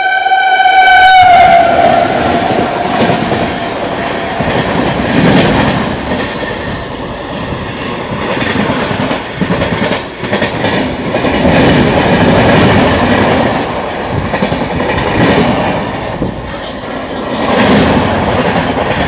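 A train horn sounds with a sudden drop in pitch as the oncoming locomotive goes by. Then the loud rumble and wheel clatter of the passenger coaches rushing past on the next track, rising and falling in waves, heard from the open doorway of a moving train.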